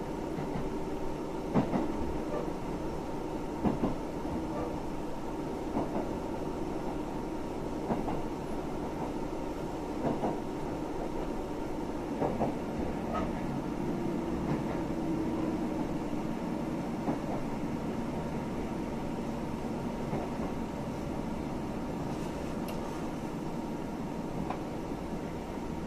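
Ride noise of a KiHa 75 diesel railcar running slowly into a station: a steady rumble, with the wheels clacking over rail joints about every two seconds.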